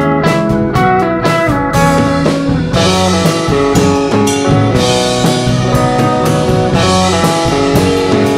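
Instrumental break of a rock band playing live: guitar over bass and drums, with no singing. The cymbals get brighter and fuller from about three seconds in.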